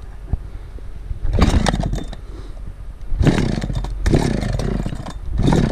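Engine running with a steady low rumble, revved up in several bursts.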